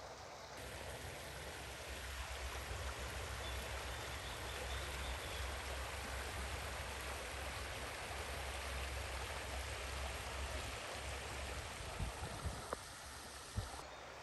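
Steady rushing of a stream's running water. A few short knocks near the end.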